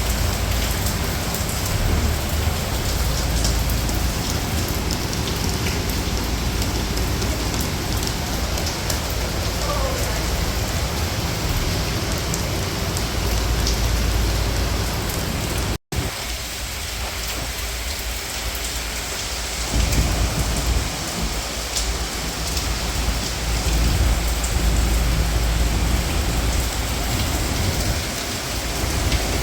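Heavy tropical rain falling steadily, a dense even hiss with a deep low rumble underneath. The sound drops out for an instant about halfway through.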